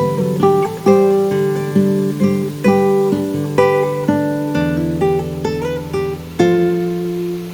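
Background music: acoustic guitar picking a run of single notes over held bass notes, with a new chord struck about six and a half seconds in.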